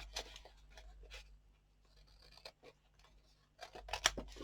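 Scissors snipping and trimming paper scraps, a run of short quiet cuts with paper rustling, a few louder snips near the end.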